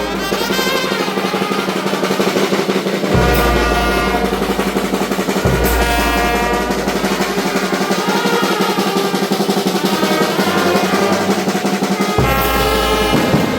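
Brass band playing, with a snare drum rolling under the brass.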